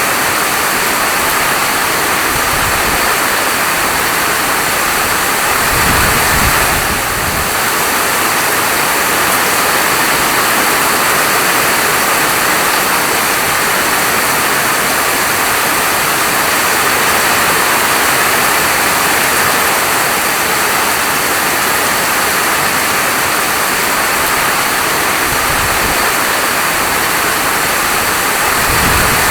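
Steady heavy rainfall, a dense even hiss, with a deeper low swell about six seconds in and again near the end.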